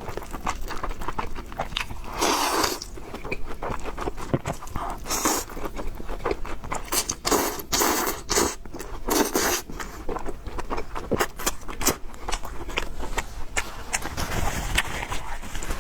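Close-miked eating of noodles and pork: steady chewing with many small wet mouth clicks, broken by a few longer noisy stretches of about a second each.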